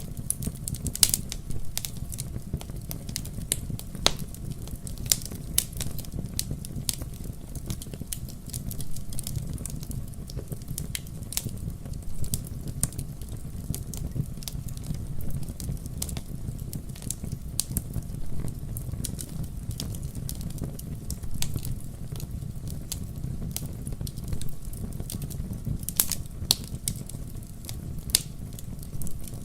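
Wood fire burning in a fireplace: a steady low rumble of flames with irregular sharp crackles and occasional louder pops of the burning logs.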